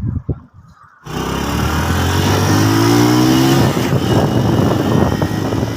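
Motorcycle engine running under way, starting suddenly about a second in after a few soft knocks. Its pitch rises as it accelerates, with a steady rushing noise over it.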